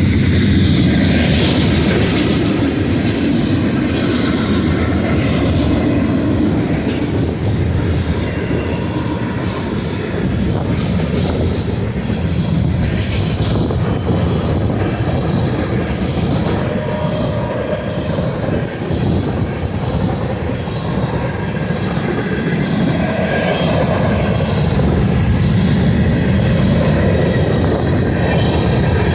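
Freight train running past, a loud, steady rumble of wheels and cars on the rails.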